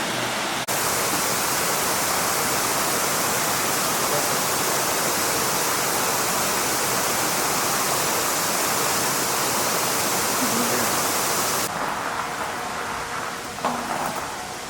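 Rushing water of a mountain stream, a loud, steady hiss. Near the end it gives way to a quieter, duller noise with a brief knock.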